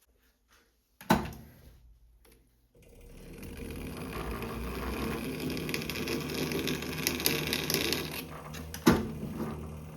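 A sharp metallic knock about a second in, then a motor-driven machine starts about three seconds in and runs with a busy mechanical rattle, building up over a couple of seconds, with another sharp knock near the end.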